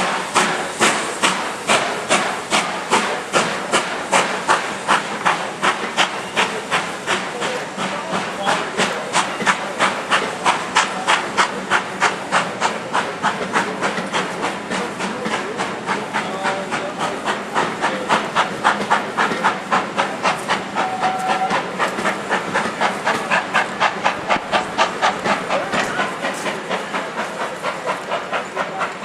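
Steam locomotive working steam, with a steady run of sharp chimney exhaust beats, about three a second, over a steady hiss of steam.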